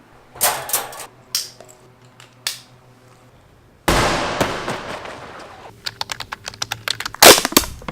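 A cut sequence of sharp clicks and knocks, then a sudden loud rush of noise that fades away over about two seconds, then a fast run of clicks and cracks that grows loudest near the end.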